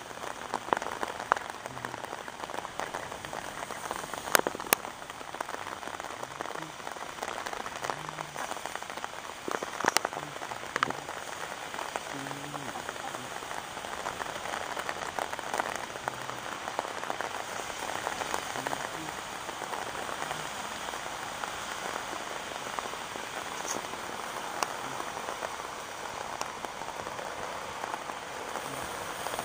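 Steady rain falling on a pond's surface, an even hiss with a few sharp taps in the first ten seconds.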